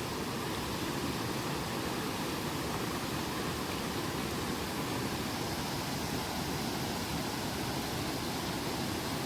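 Steady rushing of creek water over a small waterfall, an even hiss with no breaks.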